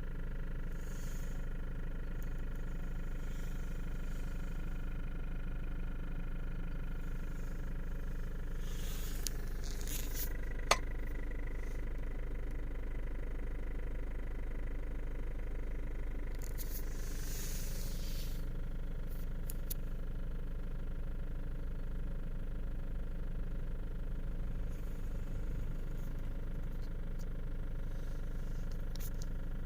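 Diesel engine of a 2016 Citroën C3 (55 kW) running steadily, with a noise the owner finds suspicious. A single sharp click comes about ten seconds in, and there are two brief hisses.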